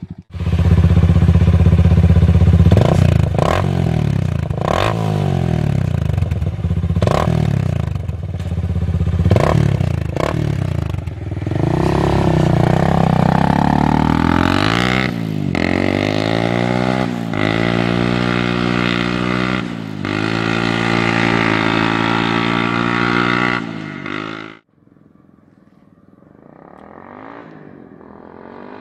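Adly 300 XS quad's engine running through a replica Akrapovic exhaust, revved in short blips about every two seconds, then in longer rising and falling revs. It cuts off abruptly near the end, leaving a much quieter sound.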